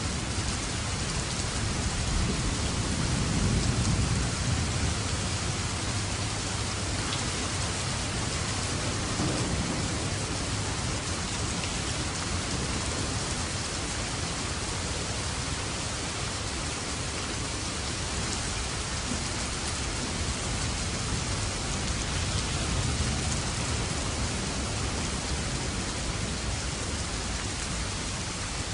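Steady heavy rain falling, with low rolling thunder rumbling underneath and swelling a few seconds in.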